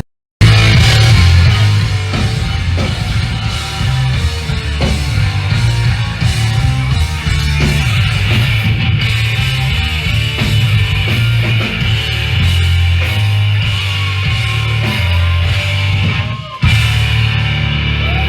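Live punk band playing at full volume: distorted electric guitars, bass and drums, loud and dense. The sound drops out for a moment at the very start and breaks sharply again about three-quarters of the way through.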